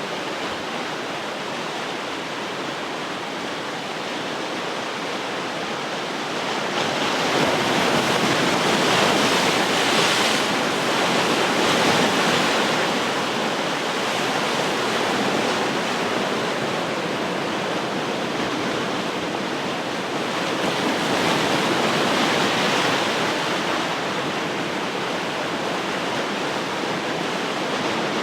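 Ocean waves breaking and washing on the shore, a continuous rushing surf that swells twice, about seven seconds in and again about twenty-one seconds in.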